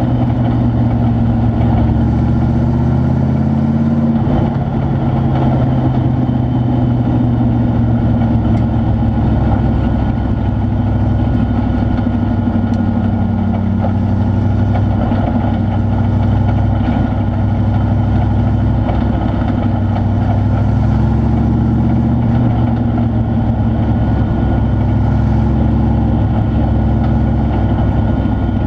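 Truck engine idling steadily, with a small shift in its pitch about four seconds in.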